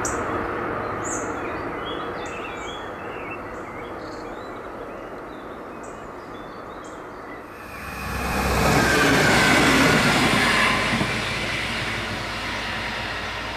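Diesel regional trains on a non-electrified line. At first a passing train's running noise fades away. About halfway, a train starts suddenly and loudly passing close by with wheel-on-rail noise, then fades as it moves off.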